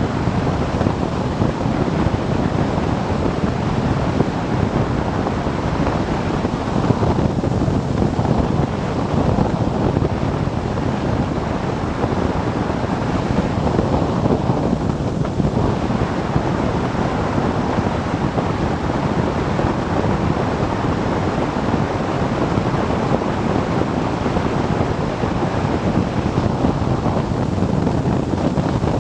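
Steady rush of wind buffeting the microphone on a moving motorcycle, with road and engine noise beneath.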